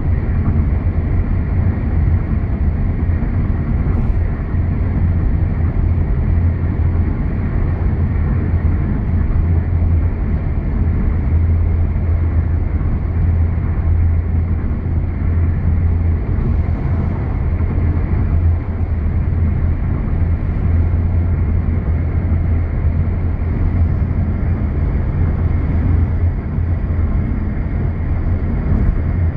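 Car driving at steady highway speed: a constant low drone of road and engine noise that does not change.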